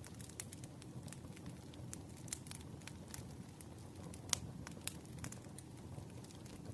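Wood fire crackling: burning logs give irregular sharp pops and snaps over a steady low rumble of flame, with one louder pop about four seconds in.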